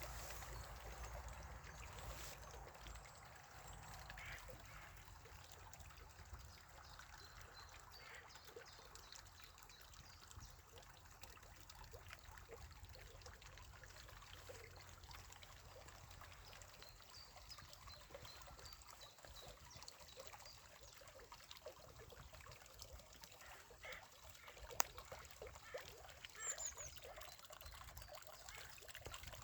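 Spring water trickling faintly, a steady dribbling patter with a sharp click near the end.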